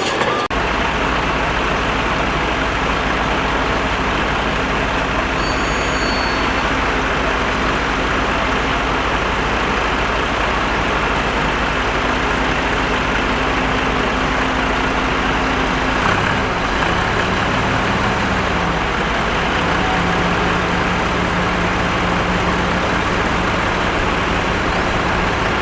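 Heavy earthmoving machinery running steadily, a dense, even engine and machine noise with a low hum whose pitch shifts lower about two-thirds of the way through.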